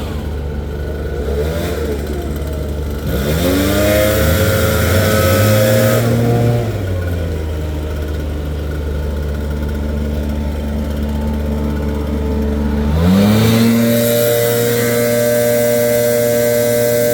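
Gas leaf blower engine being throttled: it revs up about three seconds in, drops back to a lower speed about halfway, and revs up again near the end, holding there.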